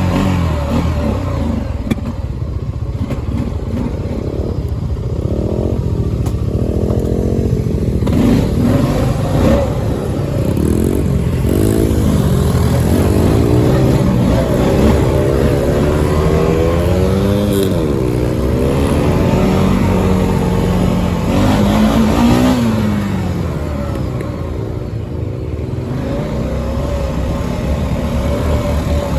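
Dirt bike engine running and revving, its pitch rising and falling again and again as the throttle is opened and closed.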